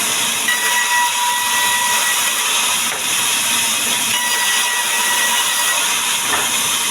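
Power saw running through wood: a steady loud hiss with a thin whine that fades in and out twice.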